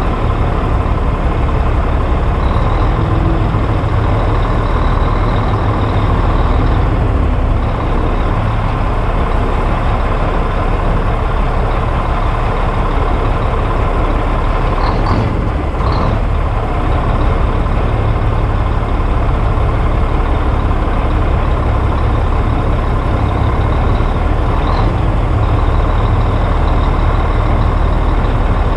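Old Mack diesel truck driving at a steady pace, its engine giving a constant low drone, with a few faint ticks or rattles about halfway through.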